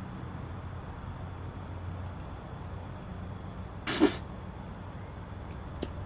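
A single short, sharp vocal burst from a person about four seconds in, over a steady low background hum.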